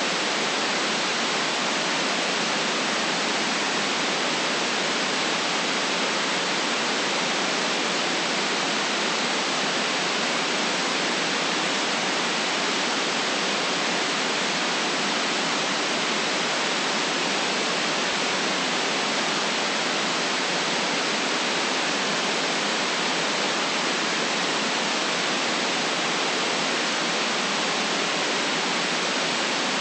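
Steady electronically generated white noise: an even, unchanging hiss cut off below about 150 Hz and above about 9 kHz, strongest in the upper range.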